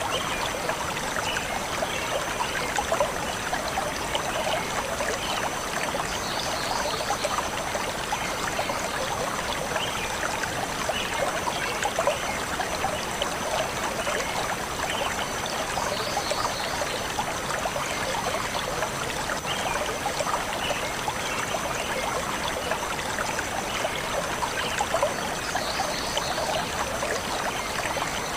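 Stream water flowing and trickling steadily over rocks, with a few faint bird chirps that recur about every ten seconds.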